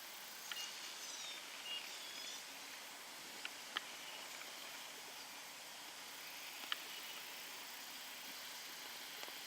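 Faint outdoor background hiss with a few short high chirps and beeps in the first couple of seconds, then three sharp ticks, two close together and one a few seconds later.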